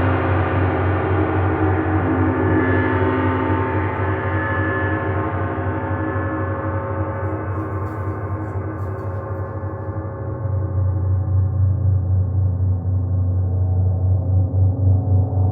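Gong played in a sustained wash: many steady overtones ringing over a deep hum, the upper tones slowly fading, with a fresh swell about ten seconds in.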